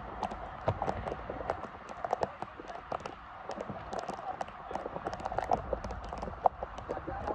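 Players' running footsteps and ball kicks during a small-sided football game, an irregular scatter of quick taps and thuds.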